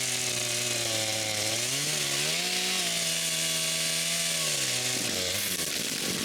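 Two-stroke chainsaw cutting through a dead tree trunk, the engine held at high revs. Its pitch rises about two seconds in and drops again near the end.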